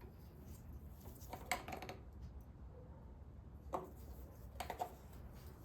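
A few faint clicks and rustles from spark plug wires being handled on an engine, over a low steady hum.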